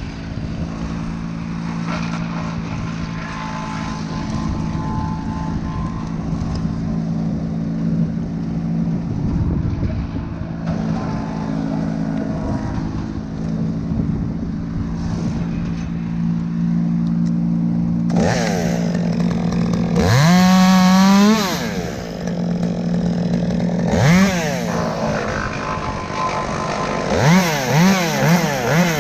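Engine hum held steady, then a two-stroke chainsaw revs up: one long rev, a short one, then several quick blips near the end.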